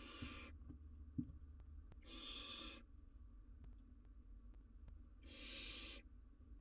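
Barn owl owlet giving three drawn-out hissing calls, a couple of seconds apart: the rasping hiss-call that barn owl nestlings use to beg for food. Faint taps and a low hum run beneath.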